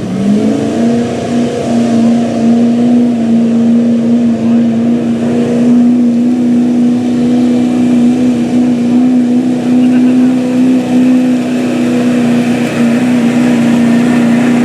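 Diesel pickup truck engine at full throttle under load, pulling a sled down the track. The engine note climbs in the first half-second, then holds at high, steady revs throughout.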